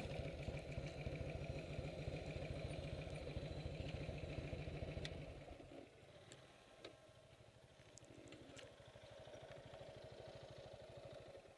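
Motorcycle engine idling with an even, steady beat. It drops to a much fainter idle about six seconds in.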